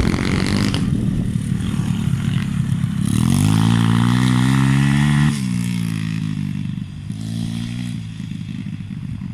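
125 cc dirt bike engine revving. The engine note climbs steadily for about two seconds, then drops off sharply as the throttle closes, and rises briefly again near the end.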